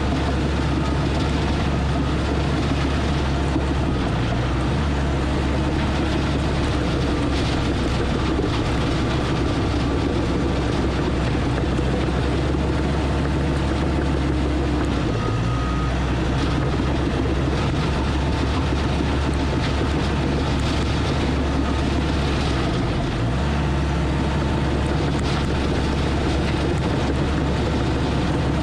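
Diesel engine of an earthmoving machine running steadily under load while pushing and shaping dirt, with its pitch dipping briefly a few times.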